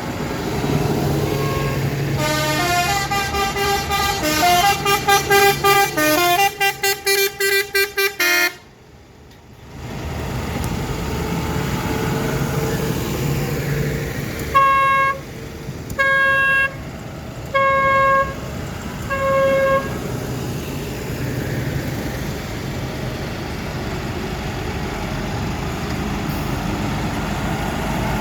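A musical vehicle horn plays a short tune of changing notes, ending in a quick run of rapid toots. After a short drop-out, a single-note horn sounds four times about a second and a half apart, over the steady running of parade vehicles' engines.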